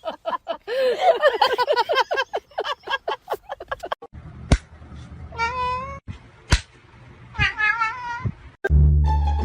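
A cat meowing: two drawn-out, wavering meows around the middle, with a couple of sharp clicks nearby. Background music plays at the start and again from near the end.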